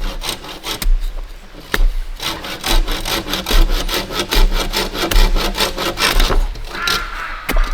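Hand saw cutting through a bamboo pole in rapid, steady back-and-forth strokes.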